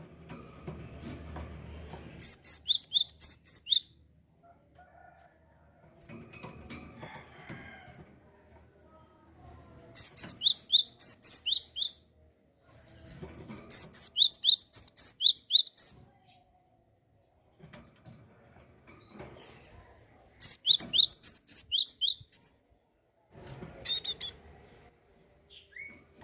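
A gelatik songbird singing: four phrases of quick, high, down-slurred whistled notes, each about two seconds long with pauses between, and a shorter burst near the end. A faint lower rustle fills the pauses.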